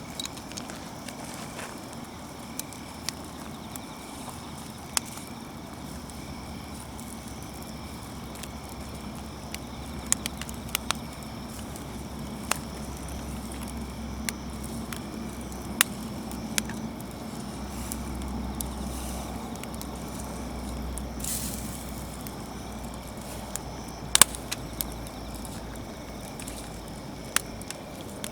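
Wood campfire crackling, with sporadic sharp pops over a steady hiss.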